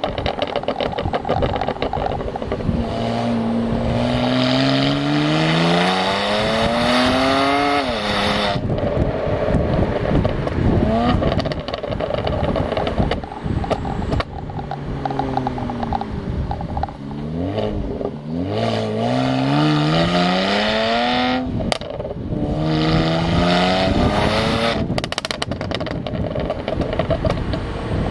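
BMW N54 twin-turbo inline-six in an e92 335i, running through catless downpipes and the stock cat-back exhaust. Its revs climb steadily several times, and each time the throttle closes, the exhaust pops and crackles from the MHD tune's aggressive burble setting.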